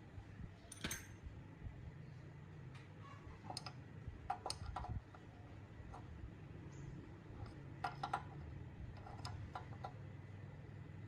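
Scattered light clicks and taps of small parts or tools being handled, a dozen or so at uneven intervals, a few coming in quick pairs, over a low steady hum.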